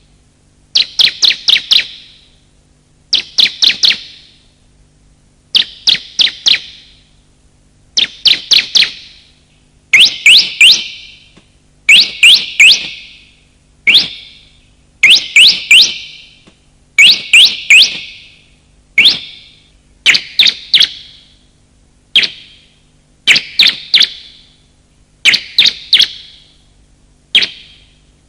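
Bar-winged prinia (ciblek) calling: short bursts of three to six rapid, sharp, high chirps, repeated about every two seconds. A recording of male and female calls used as a bird lure.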